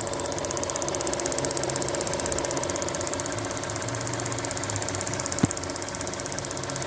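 Seat León 1.6i's EVAP canister purge valve ticking rapidly and evenly over the idling engine, with one sharp click about five and a half seconds in. The owner says the tapping is annoying but does no harm: a replacement valve made the same noise, and the engine runs correctly while the valve passes fuel vapours into the intake.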